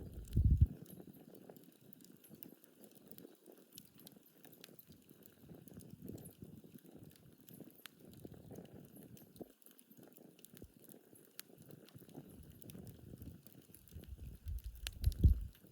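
Wood campfire burning, with sparse crackles and small pops over a low rustle of flame. A brief low rumble comes about half a second in and again near the end.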